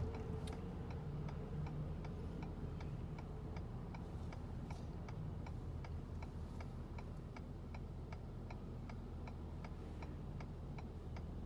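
Car turn-signal indicator ticking steadily, a few clicks a second, heard inside the cabin over a low engine and road hum.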